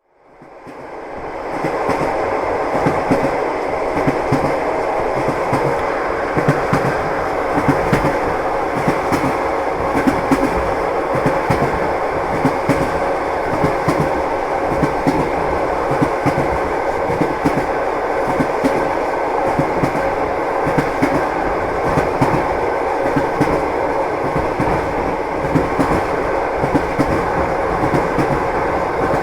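Train wheels clattering on the rails: a steady rumble of a moving train with frequent irregular knocks. It fades in over the first second or so.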